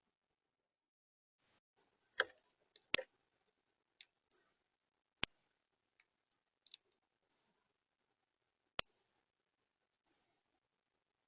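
Birds at a feeder: about ten short, high chip notes and clicks at irregular intervals, three of them loud sharp taps.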